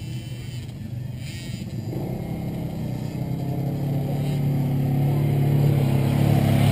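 Dirt bike engine running steadily at an even pitch, getting louder from about two seconds in.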